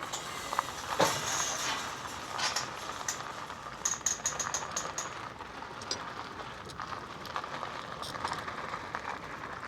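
Bicycle being taken out through a gate: a steady rushing noise with scattered light clicks and rattles.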